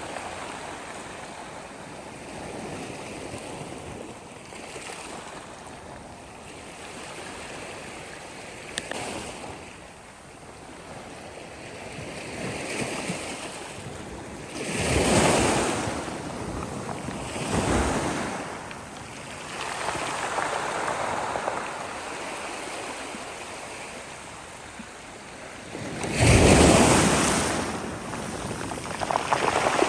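Sea waves washing and breaking on a shore as a continuous noisy wash that swells and ebbs. The biggest surges come about halfway through, again a few seconds later, and longest near the end.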